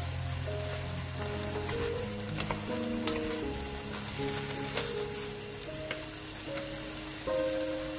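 Bracken fern stems sizzling as they are stir-fried in a nonstick wok, with scattered clicks and scrapes of a wooden spatula and chopsticks tossing them. Gentle background music plays underneath.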